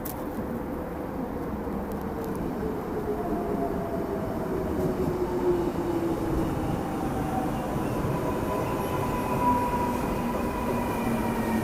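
Korail commuter electric train pulling into a station, growing louder as the cars run past the platform. A rumble of wheels on rails with a whine that falls in pitch as the train slows.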